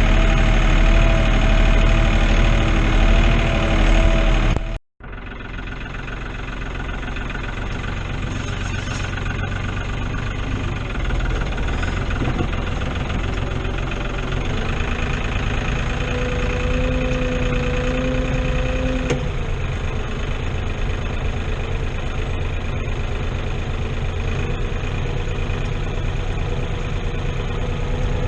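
New Holland TN70 tractor's diesel engine running steadily; the sound breaks off abruptly for an instant about five seconds in and resumes with a slightly different pitch.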